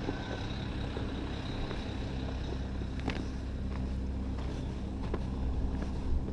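An engine idling steadily, a low even hum with a few faint clicks about three and five seconds in.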